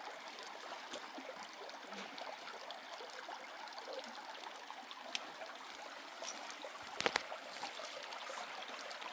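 Steady running, trickling water, with a couple of sharp clicks about seven seconds in.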